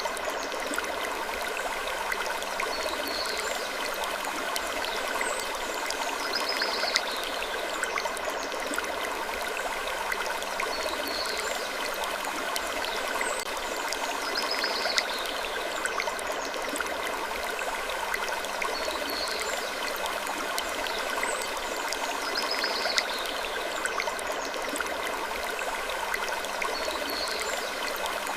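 Gentle wood creaks recurring every few seconds over a steady rushing hiss.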